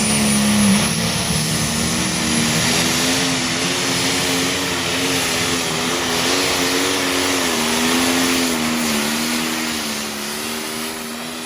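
Engine of a pulling truck or tractor running hard under heavy load, its pitch wavering up and down and easing slightly near the end.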